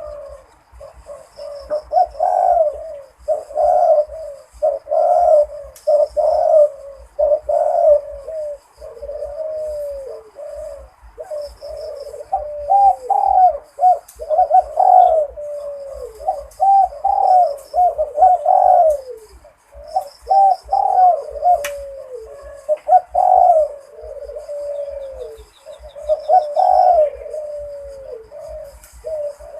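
Zebra dove cooing continuously in repeated rolling phrases, many ending in a downward-gliding note, in what Thai breeders call a Malay-style rhythm. A faint, rapid high ticking runs underneath.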